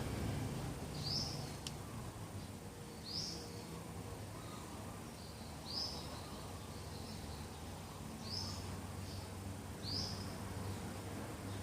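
A bird repeating one short, high call five times, roughly every two to two and a half seconds, over a steady low rumble and a faint, thin, high steady whine.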